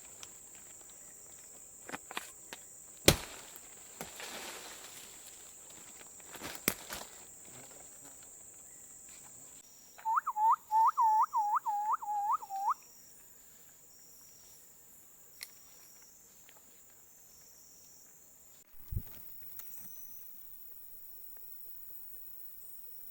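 A run of about eight quick whistled notes in under three seconds, each note sweeping upward, over a steady high insect drone. A few sharp clicks come earlier, the loudest about three seconds in, and there is a low thump near the end.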